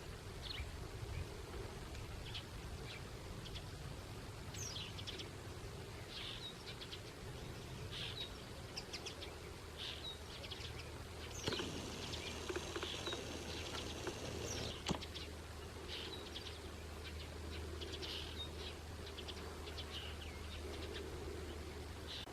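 Small birds chirping and calling, short chirps repeating throughout, over a steady low rumble.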